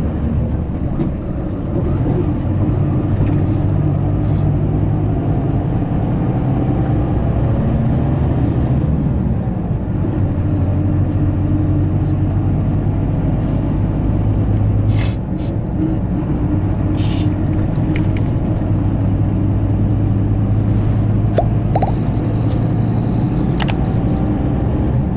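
Scania K340IB coach's rear-mounted diesel engine running steadily under way, heard from inside the cabin with road rumble; the engine note shifts about ten seconds in. A couple of short hisses come around the middle.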